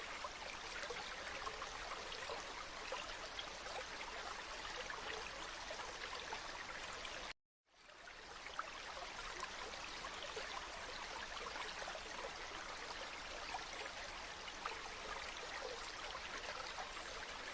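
Steady running water of a stream, trickling and splashing. About seven seconds in it cuts out to silence for half a second, then fades back in.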